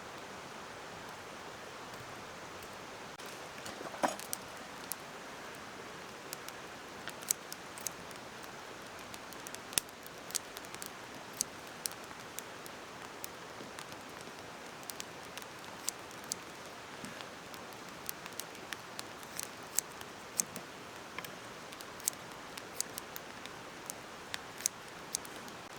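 Wood fire crackling with pork belly grilling over it: irregular sharp pops and clicks, a few seconds apart to several a second, over a steady soft hiss.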